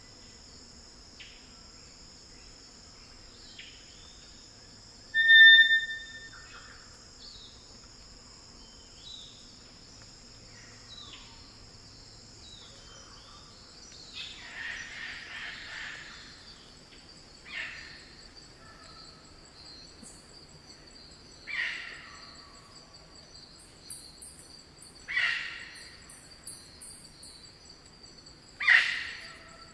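Wild Eclectus parrots calling: one loud, clear whistled note about five seconds in, then harsh squawks every few seconds, the last near the end the loudest. A steady high insect drone runs underneath.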